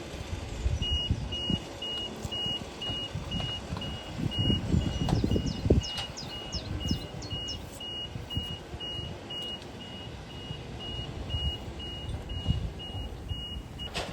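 A vehicle's electronic warning beeper sounding in quick, regular beeps, about three or four a second, over low rumbling. A run of short high falling chirps comes in the middle.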